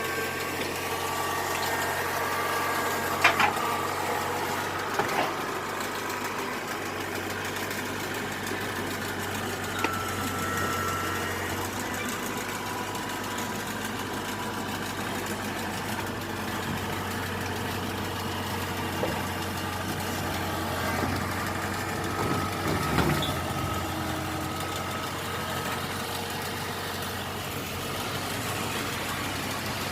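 An engine idling steadily, with a few short knocks or clanks now and then.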